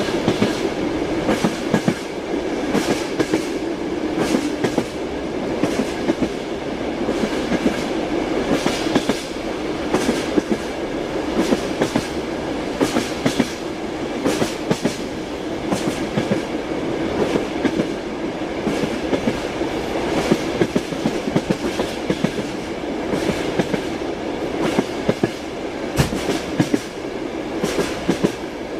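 Passenger train running, heard from inside a compartment: a steady rumble under the frequent sharp clickety-clack of the wheels over rail joints.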